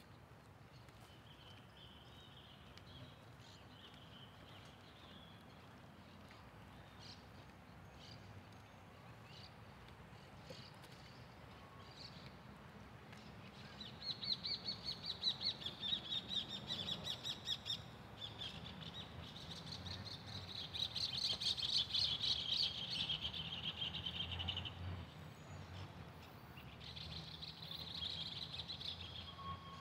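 Birds chirping in the trees, faint at first, then loud runs of rapid, trilled high notes from about halfway through that come and go in several spells.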